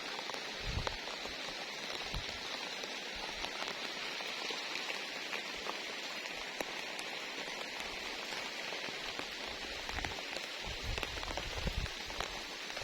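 Steady rain falling, an even hiss with scattered drop ticks, and a few low thumps about a second in and again near the end.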